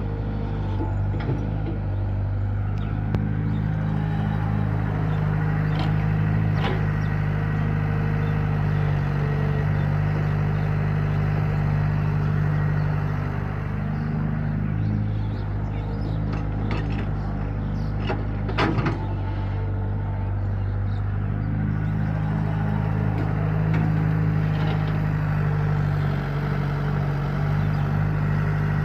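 Sonalika DI 50 RX tractor's diesel engine running steadily as the tractor works in mud, its note sagging and picking up slightly now and then. A few brief clicks and knocks come through.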